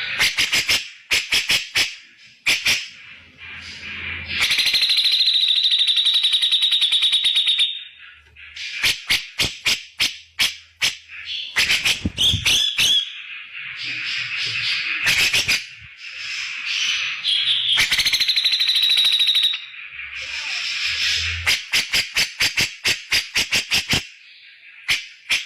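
Cucak jenggot (grey-cheeked bulbul) giving loud, harsh calls: runs of sharp clicking notes, with two long buzzing rattles of about three seconds each, one about four seconds in and one around eighteen seconds.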